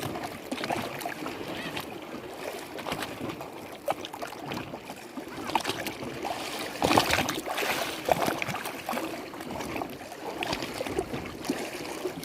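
Lake water lapping and splashing in irregular slaps, with the loudest splashes about seven seconds in.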